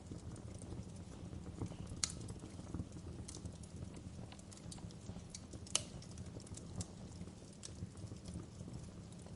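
Fire crackling in a fireplace: a steady low rumble of burning with irregular sharp snaps and pops, the two loudest about two seconds in and just before six seconds in.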